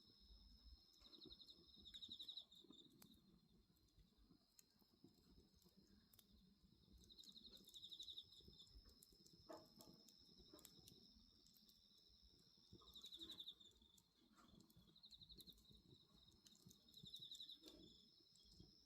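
Faint night insects: crickets keeping up a steady high trill, with a few bursts of rapid pulsed chirping every few seconds. Scattered faint clicks and crackles from the bonfire.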